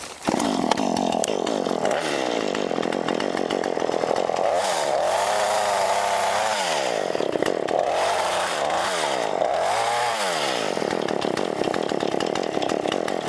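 Chainsaw cutting brush, cutting in sharply just after the start and running at high speed throughout. Its engine pitch dips and climbs back several times as it loads up in the wood and frees again.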